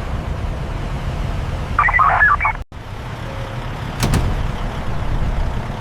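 Steady low machinery rumble, with a short burst of electronic beeping about two seconds in and a brief sharp hiss about four seconds in.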